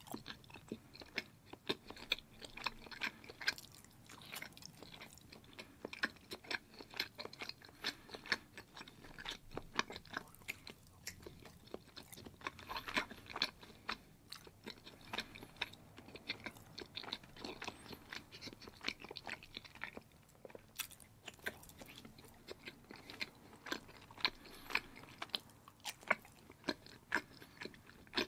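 A person chewing mouthfuls of thick orange block cheese: a continuous run of quick, close mouth clicks, broken now and then by a bite.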